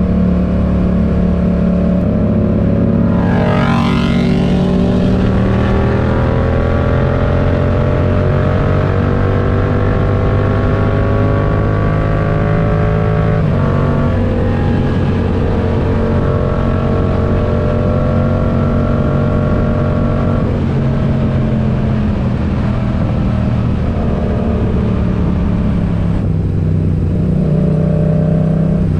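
Yamaha MT-07's parallel-twin engine through a RoadsItalia aftermarket exhaust, pulling hard under acceleration. The pitch climbs, drops at a gear change about 13 seconds in, climbs again, then settles to a steadier note from about 20 seconds on.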